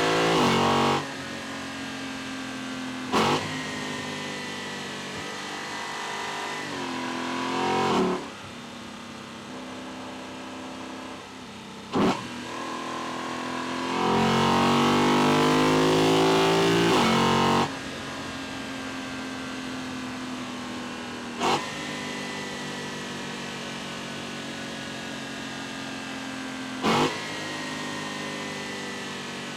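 Lexus LC 500's naturally aspirated 5.0-litre 2UR-GSE V8 heard at the intake from inside the engine bay while driving: a steady cruising note, revs rising briefly about a quarter of the way in, then a loud full-throttle pull of about three and a half seconds a little past the middle. Four short, sharp loud bursts break in at intervals.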